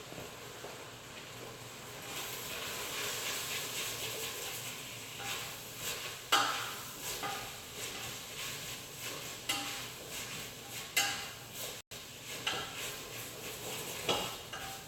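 Food sizzling in a pan, with a utensil stirring and knocking against the pan several times.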